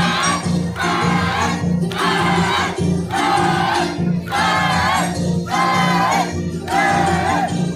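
Andean folk dance music: voices singing together in a high register, in short phrases about a second long, over a steady instrumental accompaniment.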